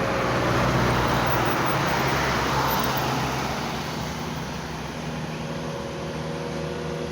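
Bus passing at speed on the road. Its tyre and engine noise swell over the first few seconds and then fade away, with a low engine hum underneath.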